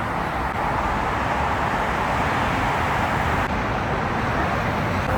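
Steady road-traffic noise: a continuous rush of vehicles and tyres, with no distinct events.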